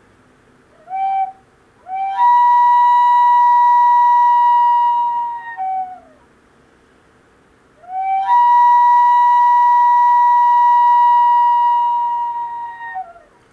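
Native American flute in the key of G playing an imitation of a loon's wail: a short low note, then two long calls, each sliding up from a lower note to a higher held note and falling back down at the end.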